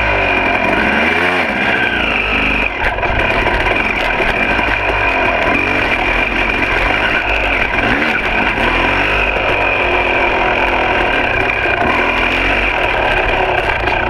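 Two-stroke dirt bike engine running and being revved, its pitch rising and falling repeatedly as the throttle is worked.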